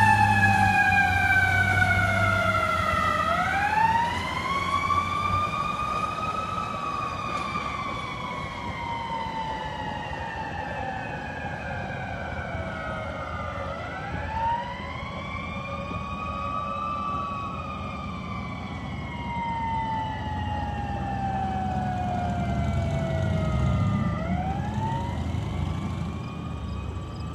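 Fire engine siren in a slow wail: the pitch climbs quickly, then falls away slowly over several seconds, about three times. A heavy diesel engine rumbles underneath at first, and the whole sound gets fainter over the first few seconds.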